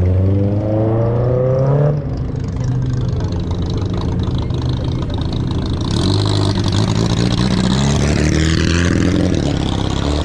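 Car engine revving, its pitch climbing for about two seconds before dropping back, then running with a lower rumble and a smaller rev near the end.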